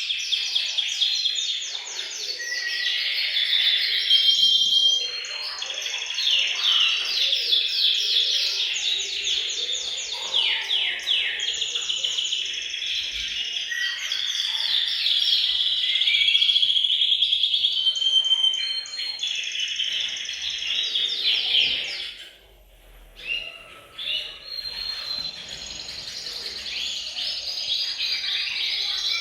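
Several male canaries singing together in overlapping song of fast rolling trills and chirps, with a brief pause about three quarters of the way in.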